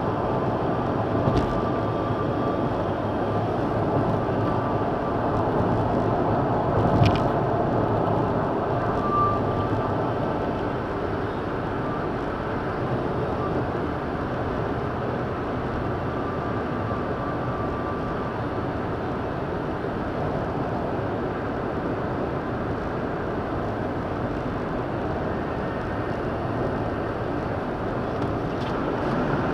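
Steady road and engine noise inside a moving car's cabin, with a faint high tone that comes and goes, from a phone's meditation app. A couple of short clicks about one and seven seconds in.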